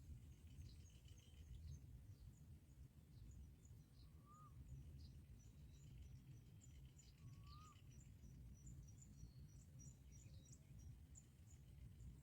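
Faint outdoor background rumble with scattered high, short bird chirps, and two brief whistled notes about four and seven and a half seconds in.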